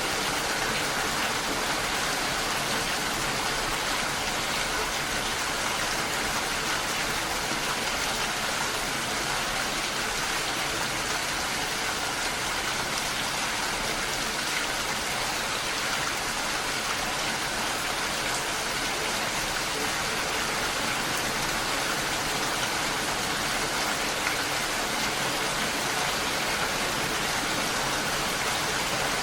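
Steady rain falling, a continuous even hiss of drops that keeps the same level throughout.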